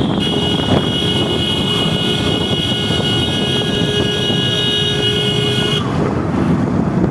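Motorcycle riding at highway speed, heard mostly as heavy wind rush on the rider's microphone under the engine. A steady high whine runs over it and stops about six seconds in.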